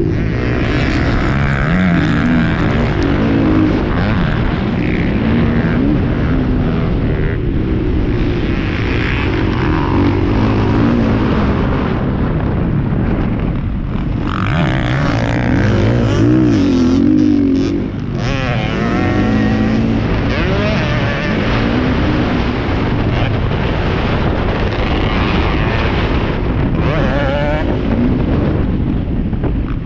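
Several motocross bikes racing. The engines rev up and down continuously, their overlapping notes rising and falling.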